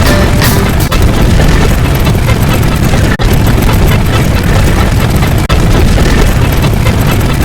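Loud, dense wall of layered sound effects: a continuous explosion-like rumble, heaviest in the low end. It breaks off for an instant three times, about every two and a half seconds, as one clip gives way to the next.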